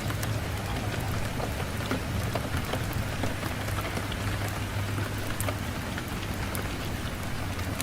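Steady rain with a low, even rumble underneath and scattered sharp ticks of drops.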